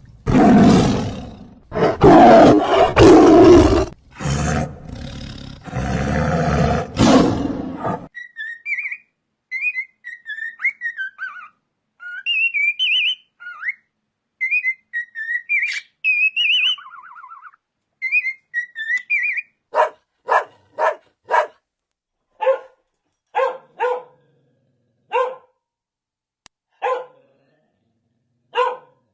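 A run of animal calls in turn: loud, rough calls for the first several seconds, then quick high chirps and trills, then a string of about a dozen short, sharp barks.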